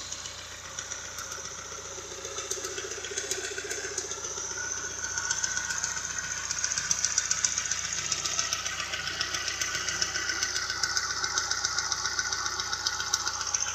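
An engine running with a fast, steady ticking; the cause of the tick is unknown to the owner.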